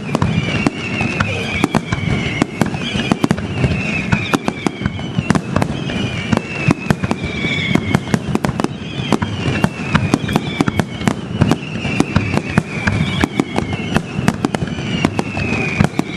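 Fireworks display: a dense run of rapid bangs and crackles, with whistling shells sounding one after another, each whistle falling in pitch.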